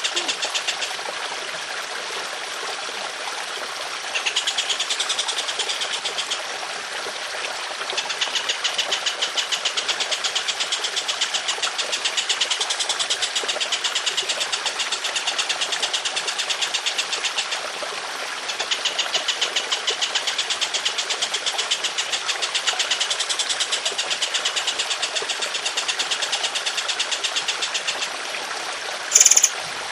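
A caged songbird's long, harsh rattling trill: very fast repeated notes in stretches of several seconds, over a steady trickle of running water. A brief, louder call cuts in near the end.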